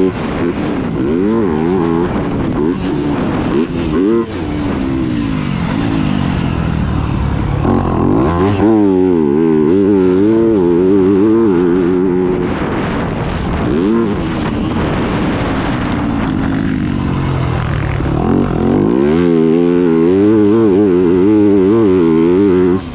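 Yamaha YZ250F four-stroke single-cylinder motocross bike engine being ridden hard, its pitch rising and falling over and over as the throttle opens and closes and it shifts through the gears.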